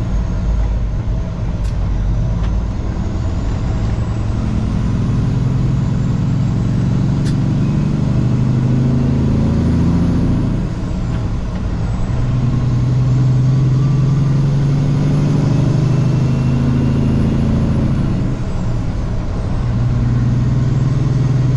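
Semi truck's diesel engine heard from inside the cab, running under way; the engine note climbs and holds, dipping briefly about halfway through and again near the end.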